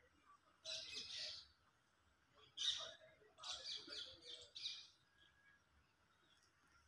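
Faint bird chirps in short bursts: a cluster of calls about a second in, a sharper one near the middle, and a run of several quick chirps just after it.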